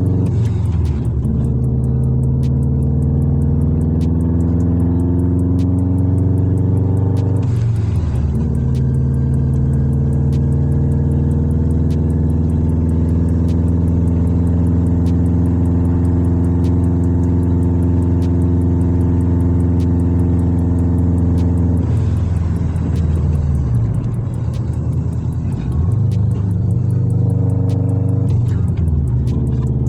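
Straight-piped Subaru Impreza WRX's turbocharged flat-four engine under way, with a steady drone at cruise. The revs drop and climb again just after the start and at about 8 seconds, like gear changes. In the last eight seconds the revs dip and come back up several times.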